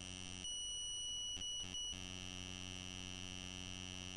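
Steady electrical mains hum in the recording, with a thin high buzz over it. About half a second in, the hum gives way to a clean high tone that breaks off twice and stops near two seconds, and then the hum returns.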